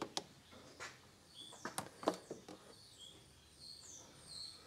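Faint birdsong: short high chirps and whistles, starting about a second and a half in, mixed with a few soft clicks and knocks.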